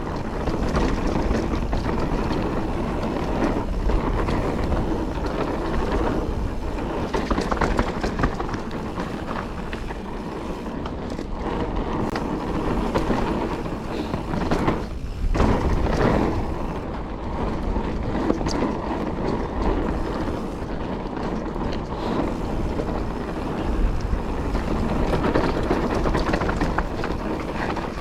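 Calibre Triple B mountain bike descending a trail of loose pea gravel: tyres crunching and skittering over the stones, the bike rattling, and wind on the helmet-mounted action camera's microphone. The sound briefly drops away about halfway through, then comes back.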